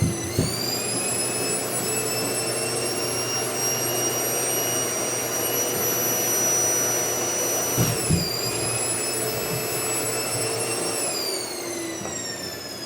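Household vacuum cleaner running with a high motor whine over a steady rush of air. The whine drops in pitch around eight seconds in and slides lower again near the end. There are a few light knocks just after the start and around eight seconds.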